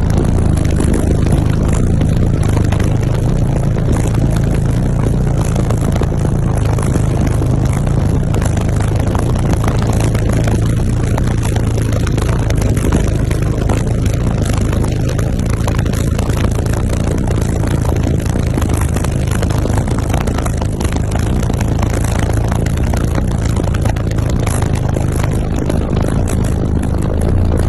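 Very loud car-audio subwoofer bass from a high-output SPL system, a deep, steady low hum that is strong enough to blow air from the speaker ports.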